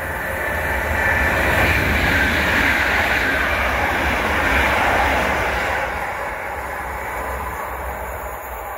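A train passing, its rumble and rushing noise building over the first second, staying loud for a few seconds, then fading away.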